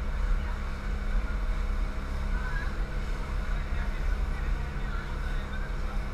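Motorboat engine running at a steady pitch under way, with faint voices in the background.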